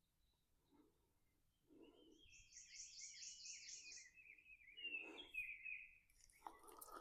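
Faint songbird singing: a quick run of evenly repeated high notes, about five a second, over a lower warbling phrase. It starts about two seconds in and stops about a second before the end.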